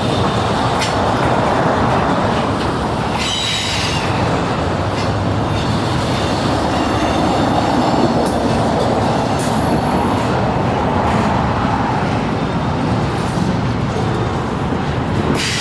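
Norfolk Southern freight train's cars rolling past at close range in a steady rumble. There are occasional clanks and brief high-pitched wheel squeals.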